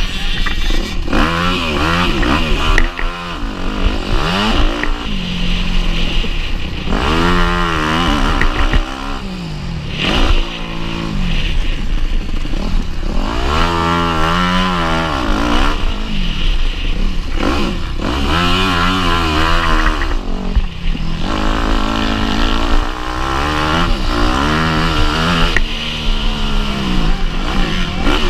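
Motocross bike engine under race load, revving up and dropping back over and over as the rider accelerates and backs off, with its pitch repeatedly rising and falling.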